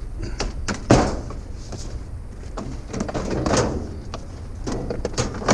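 A few sharp knocks and clatters from handling the parts of a stripped-down vacuum cleaner, the loudest about a second in, over a steady low rumble.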